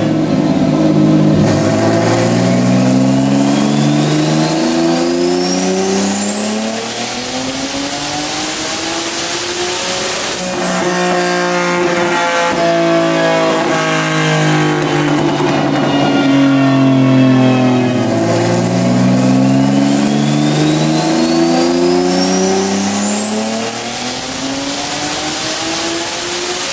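A turbocharged Nissan VQ35 V6 in a front-wheel-drive Maxima makes two wide-open-throttle pulls on a chassis dyno. Each time the engine note climbs steadily for about eight seconds with a high whistle rising with it. It then cuts off sharply at the top and winds down as the rollers coast.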